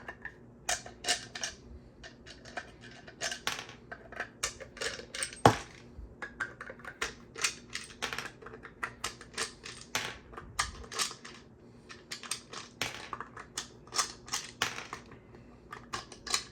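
Rapid, irregular clicking and clattering of 3D-printed plastic screws and box parts being unscrewed and handled, with one sharp louder click about five and a half seconds in.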